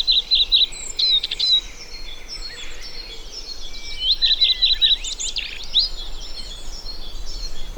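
Several wild birds singing together. One bird repeats a short phrase of quick, even notes twice, at the start and again about four seconds in.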